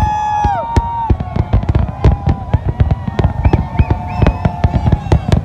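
Fireworks display: a dense, rapid crackle of bangs and pops throughout, with whistling fireworks holding steady high tones that drop away in the first second and wavering whistles again near the end.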